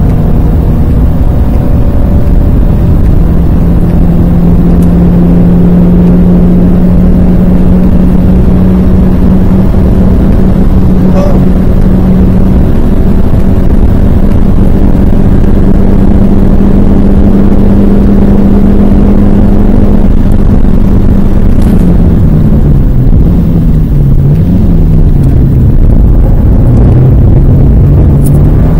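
A Renault Twingo's 1.2-litre 16-valve four-cylinder engine, heard loud from inside the cabin, pulling at full throttle with its note slowly rising through a long straight. About three-quarters of the way through, the revs drop and rise several times as the car brakes hard and changes down for a tight corner, then the engine pulls again.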